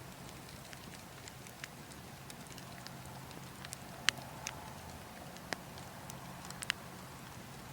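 Burning logs crackling, with scattered sharp pops at irregular intervals, the loudest about four seconds in and a few more near the end, over a steady wind hush.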